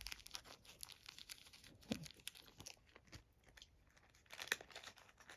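Faint crinkling and crackling of a plastic wrapper being pulled and bitten open, in scattered crackles that are loudest about two seconds in and again about four and a half seconds in.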